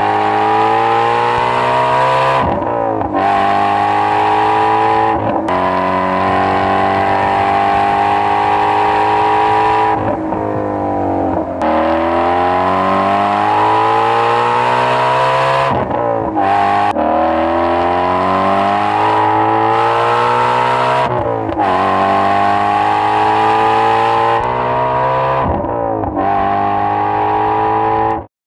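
Ford Mustang Shelby GT350R's flat-plane-crank V8 at hard throttle, climbing in pitch and breaking off briefly at each gear change, over and over. The sound cuts off suddenly near the end.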